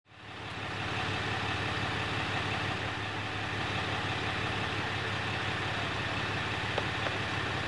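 A vehicle engine idling steadily, fading in over about the first second.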